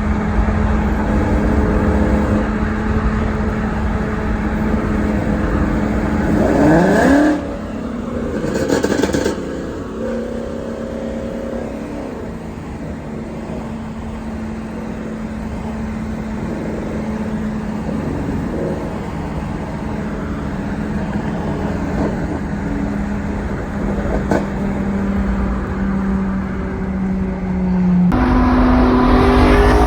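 S550 Mustang's 5.0 V8 with catless long-tube headers and a Borla catback exhaust, running under steady throttle with a loud, steady drone. About seven seconds in it revs up sharply in pitch, then settles back into the drone. Near the end a louder stretch of the engine begins abruptly.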